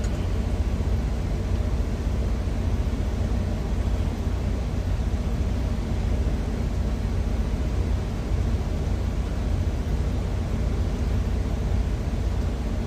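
Steady low rumble of an idling semi-truck, heard from inside the cab, with an even hiss over it.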